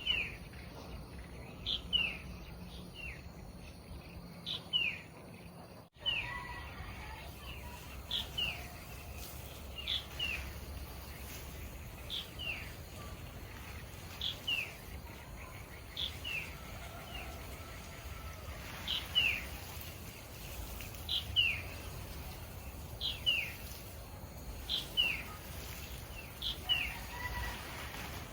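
A bird calling over and over: each call is a short high note followed by a falling whistle, repeated about every two seconds.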